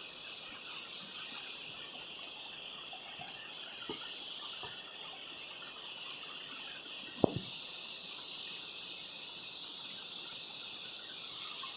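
Steady high-pitched chorus of night insects in tropical rainforest, with a single sharp knock about seven seconds in and a few faint ticks.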